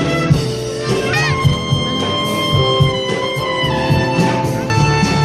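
Jazz band playing, with horn lines over a steady bass and drum beat.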